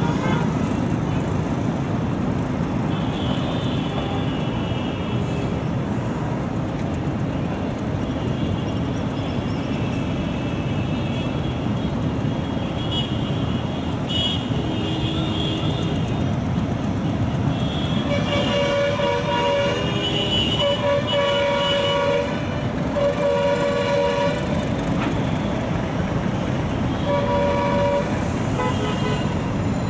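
A train running with a steady rumble, with short horn toots faint at first and then several in a row in the second half.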